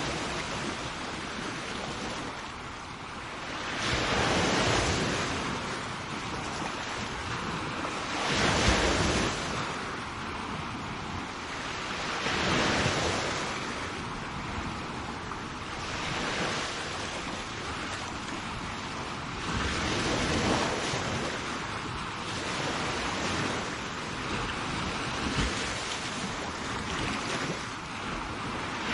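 Sea waves breaking and washing up a shore, a steady hiss of surf that swells with each wave about every four seconds, with some wind on the microphone.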